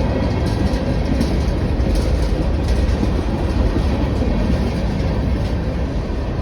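Manifest freight train's cars rolling past: a steady, loud rumble of steel wheels on the rails with faint clicks over the rail joints.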